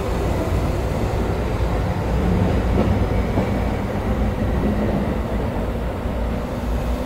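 Interior running noise of a JR East E217 series electric commuter train pulling out of a station: a steady low rumble of wheels and traction equipment through the car body, with a faint high tone above it.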